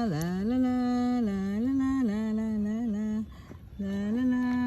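A voice humming a wordless tune in held notes that step up and down in pitch, breaking off briefly a little after three seconds and then starting again.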